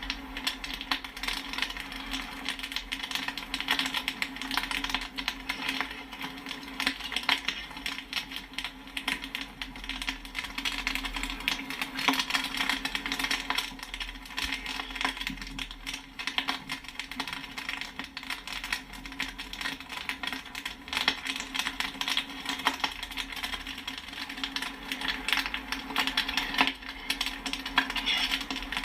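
Popcorn kernels popping in a rapid, continuous, irregular patter, many kernels pinging off the sides of the popper, over a steady low hum.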